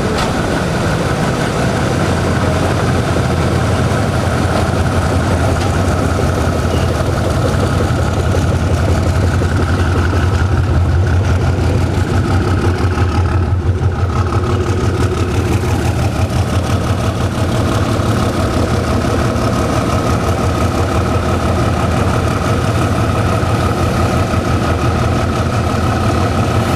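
Diesel locomotive engine running steadily at idle, a loud low throb with a fast even pulse and a steady higher whine over it.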